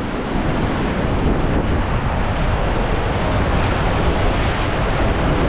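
Whitewater of a river rapid rushing steadily, with wind buffeting the microphone.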